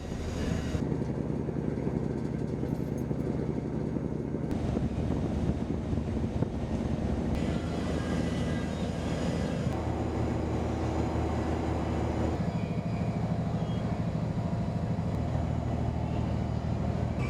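Boat engine running with a steady low drone; its pitch and tone shift abruptly a few times.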